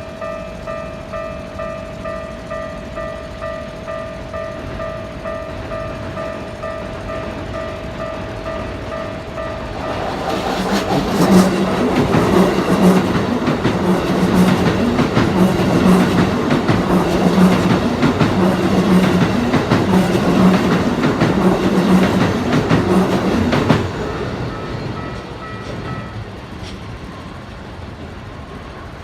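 Level-crossing warning bell ringing in a steady, rapid repeating pattern. About ten seconds in, a Keikyu train passes, louder, with a rhythmic clatter of its wheels, until it cuts off sharply near 24 seconds. The bell then rings briefly again and stops.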